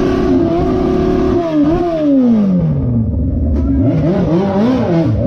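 Car engine revving: held at high revs, falling away about a second and a half in, then blipped up and down again near the end.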